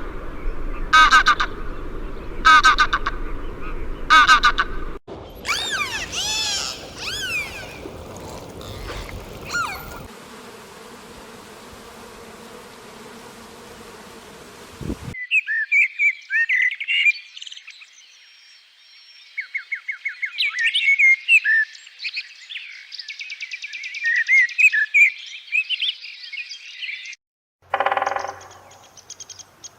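A peacock calls three times with loud, evenly spaced cries. Other animal sounds follow: sweeping whistle-like glides, a steady hiss, and then a long run of fast chirps and trills.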